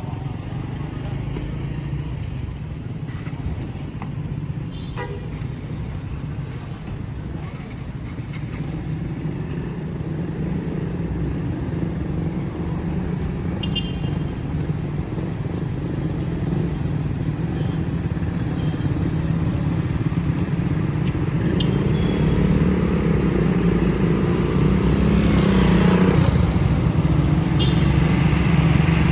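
Steady engine and road noise from motorcycle and car traffic, growing louder through the second half, with a vehicle rushing past close by near the end.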